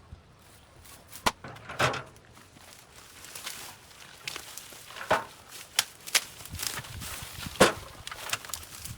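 A series of irregular sharp knocks and snaps, about half a dozen spread unevenly, the loudest near the end, over a faint rustling background.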